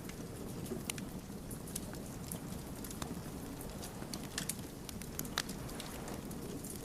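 Wood fire crackling: a steady low rush of flames with many small, irregular pops and snaps from the burning logs.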